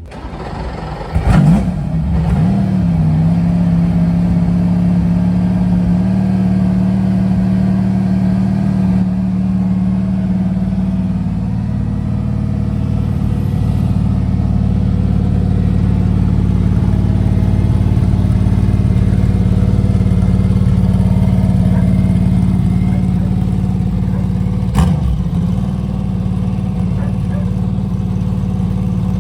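Aston Martin Vantage AMR GT3 Evo race car's twin-turbo V8 on a cold start: it fires up about a second in with a short rev flare, then settles into a steady, loud idle. A brief sharp blip comes near the end.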